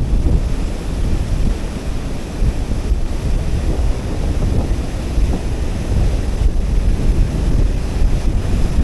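Rushing water of a river cascade and strong current, with wind buffeting the microphone as a heavy low rumble.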